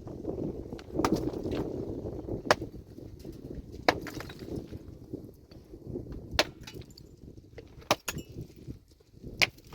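Rock-breaking work: sharp clinks of hard tools and stones striking rock, about seven at irregular intervals, over a steady low rumble.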